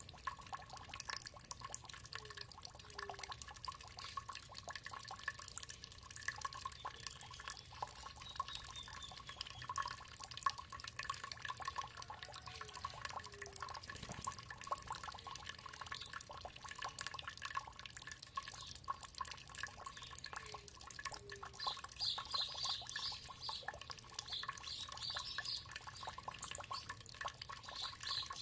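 Water trickling and dripping in a steady patter, with birds calling over it; a bout of rapid high chirping comes in near the end.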